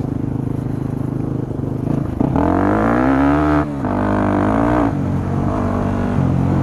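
Yamaha WR250 dual-sport motorcycle engine running steadily, then revving up and back down twice in quick succession, with a short break between the two revs, before settling back to a steady run.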